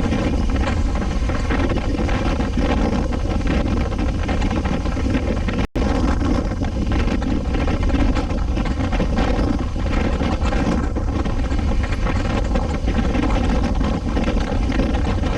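Suzuki V-Strom 250 SX's single-cylinder engine running steadily on the move, with wind rushing over the microphone. The sound drops out for an instant about six seconds in.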